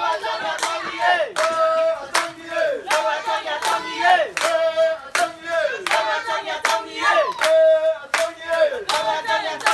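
A group of voices chanting together in repeated held calls, each ending in a downward slide in pitch, with sharp claps between them.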